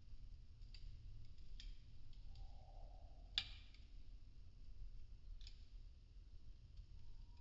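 Burning popsicle-stick wood crackling softly, with a few sparse sharp pops over a low steady rumble. The loudest pop comes about halfway through.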